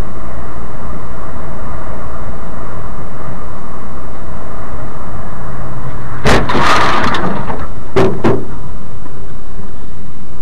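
Steady dashcam road and engine noise from a moving car. About six seconds in, a sudden loud crash-like impact lasts about a second, and two short sharp knocks follow about two seconds later, typical of a vehicle collision.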